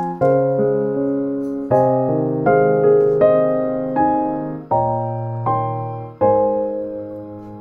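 Slow background piano music, with chords and single notes struck about once a second over a bass line, each note ringing and fading.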